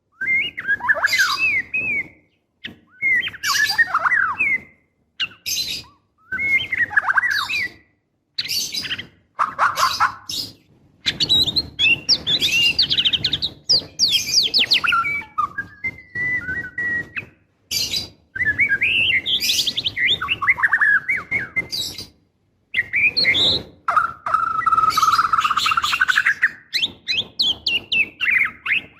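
Female white-rumped shama in breeding condition calling for a male. The calls come in repeated phrases of one to two seconds with short pauses, mixing quick whistled sweeps and fast rattling chatter, with one longer steady whistle near the end.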